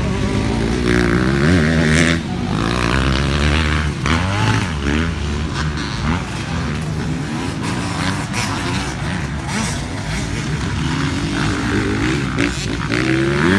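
Suzuki RM-Z250 motocross bike's four-stroke single-cylinder engine being ridden hard, its note rising and dropping again and again with throttle and gear changes.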